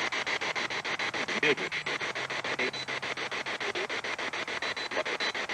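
Spirit box sweeping through radio stations: hissing static chopped into rapid even steps, about ten a second, with a few brief pitched snatches of broadcast sound.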